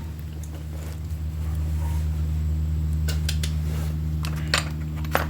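A steady low mechanical hum, like a shop fan running, that gets a little louder about a second in. A few sharp metallic clicks of hand tools come in the second half.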